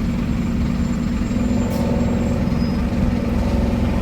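Scania double-decker bus engine running steadily, a low even drone heard from on board the open-top deck.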